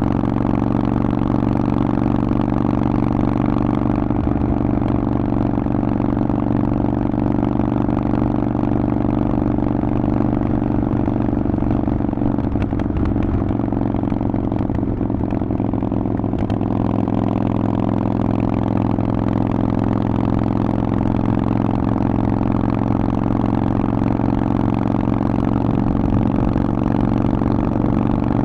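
Harley-Davidson Forty-Eight's air-cooled 1200 cc V-twin running through a Vance & Hines exhaust, its note holding steady at a constant pitch.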